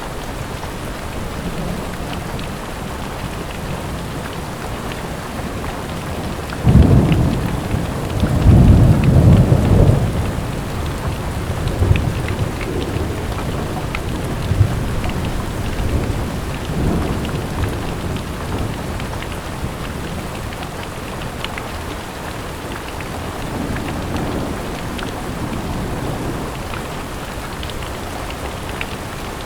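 Steady rain with scattered drop ticks, and thunder. A sudden low rumble starts about seven seconds in and is loudest between about eight and ten seconds, then weaker rumbles come and go.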